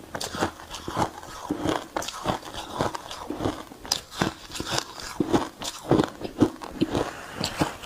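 Refrozen shaved ice being bitten and chewed: a rapid run of crunching and crackling close to the mouth, several crunches a second.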